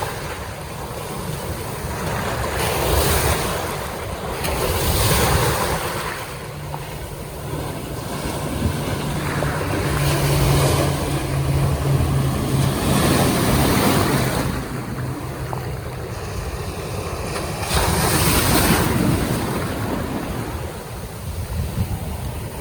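Surf breaking and washing in loud surges, with wind buffeting the microphone. A boat motor's steady low hum runs through the middle.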